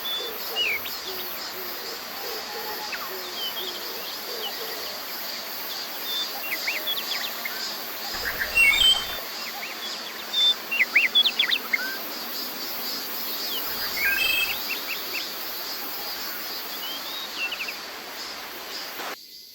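Small forest songbirds giving short, scattered chirps and calls, busiest in the middle, over a steady high pulsing drone of cicadas. The whole bed cuts off suddenly just before the end.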